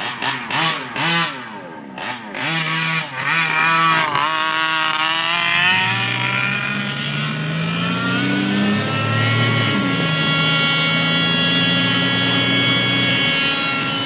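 Two-stroke gas engine of a 1/5-scale HPI Baja RC buggy revving: a few quick throttle blips at first, then a long full-throttle pull with the pitch rising for several seconds, a brief dip, and a steady high-revving run at speed.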